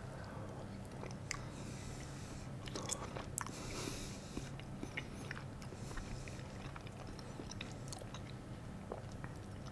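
A man quietly chewing a mouthful of creamy pumpkin risotto, with a few small clicks of a spoon against the plate.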